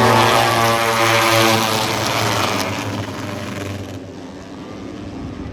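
Moto3 racing motorcycles, 250 cc single-cylinder four-strokes, passing at speed. Their engine note drops slightly in pitch and fades away over the second half.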